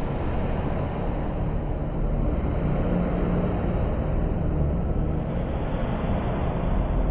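Steady, dense electronic drone from the Lunacy Cube software instrument: a low rumbling texture with a grainy, noisy haze and a few held low tones, no clear beat.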